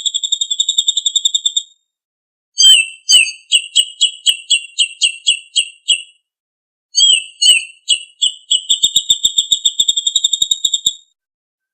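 A songbird singing loud phrases of rapid, high-pitched repeated notes with silent gaps between them. The first phrase ends in a fast trill under two seconds in. The next, about three seconds long, repeats a note about four times a second. The last opens slowly and runs into a fast trill that stops about a second before the end. This is songbird master (masteran) song used to train caged birds.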